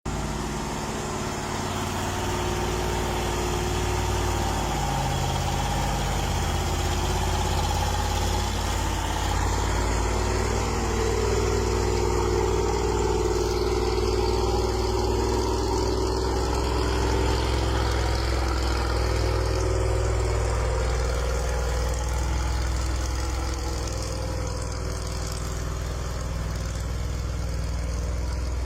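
Engine of a 6x6 timber truck running steadily under load as the truck climbs uphill.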